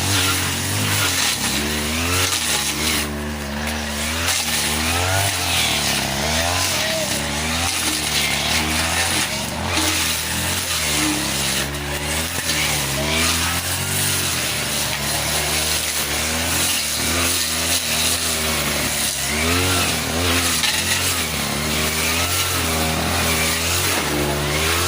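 A 40cc two-stroke brush cutter running hard, its engine pitch dipping and rising again and again as the blade bites into thick grass.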